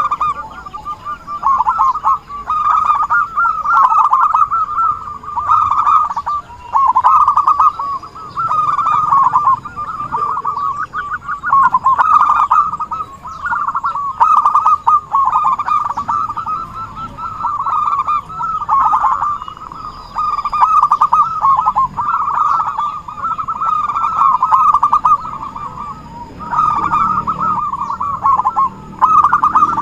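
Zebra doves (perkutut) calling: soft, rapid trilled cooing phrases, one after another with short breaks. This is the lively 'gacor' calling used as a lure to draw other perkutut.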